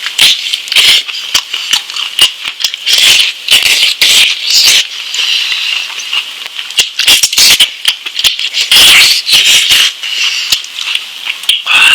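Close-miked eating sounds as lamb meat is chewed: a dense, irregular run of wet smacks and clicks.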